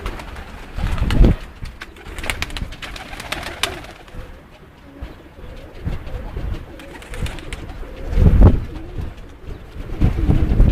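Domestic pigeons cooing, with loud low thumps or rustles about a second in, about eight and a half seconds in and near the end.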